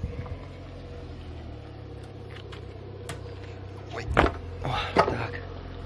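Peugeot 406's engine idling with a steady low hum as the car creeps onto the ramp. About four to five seconds in, a couple of sharp knocks and a brief voice cut in.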